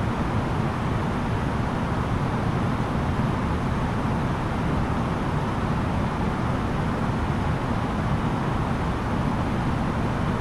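Steady cabin noise of an Airbus A330-900neo airliner: an even, low rush of its Rolls-Royce Trent 7000 engines and air noise, heard from inside the passenger cabin.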